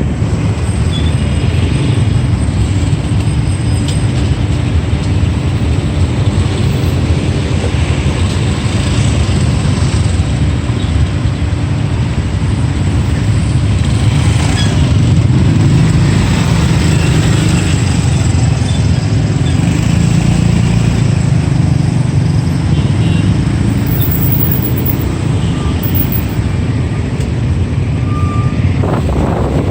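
Steady rumble of a motorbike ride in city traffic: the bike's engine with road and wind noise and other traffic around it.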